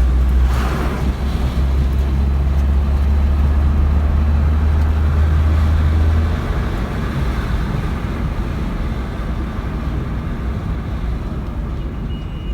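Maruti Suzuki car with a K-series petrol engine running. A heavy low rumble drops away about six seconds in, leaving a steady, lighter running noise.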